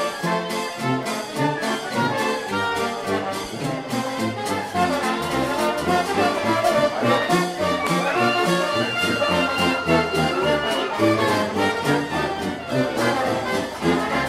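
Brass-band music: trumpet and trombone over a steady bass line, with one long held high note about eight seconds in.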